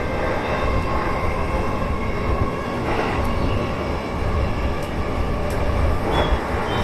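Electric commuter train running along the line, with a steady rumble of wheels on rails and faint steady whining tones. A brief high-pitched squeal comes about six seconds in.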